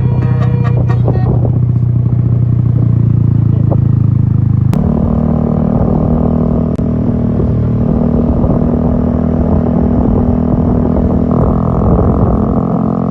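The tail of a multi-note telolet horn tune from a bus's 36-note horn, ending about a second and a half in, followed by a steady vehicle drone from the bus, which shifts abruptly in pitch about five seconds in and again near the end.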